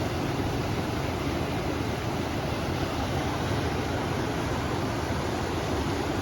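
River water flowing with wind blowing, a steady rushing noise that is heaviest in the low range.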